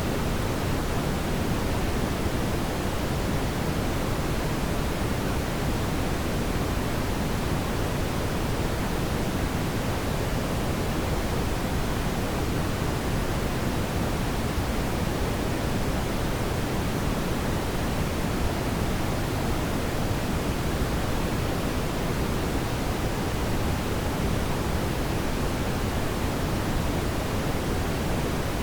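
Brown noise: a steady, even rush weighted toward the low end, unchanging throughout.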